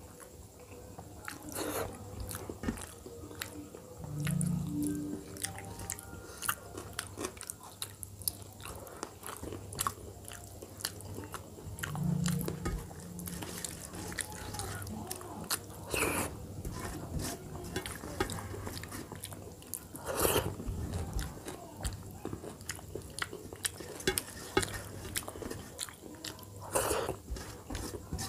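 Close-miked wet chewing and mouth smacking of a person eating dal and rice by hand, with many small clicks and fingers mixing the food on a steel plate. Two short low hums are heard at about four and twelve seconds in.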